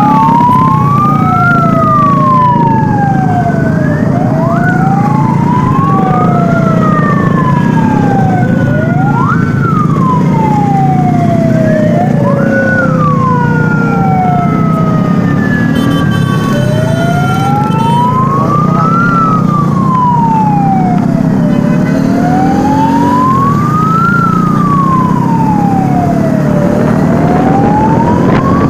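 Two sirens sounding together over a steady low rumble of engines. One wails slowly up and down, about one cycle every five seconds. The other rises sharply and falls away slowly, a few seconds apart, and stops about halfway through.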